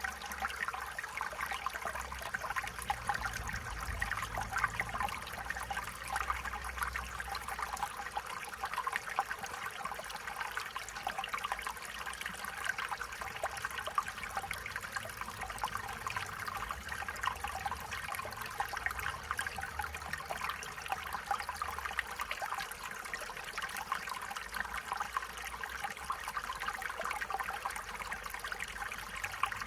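Stream water trickling and babbling over stones: a steady running-water hiss full of small bubbling flickers.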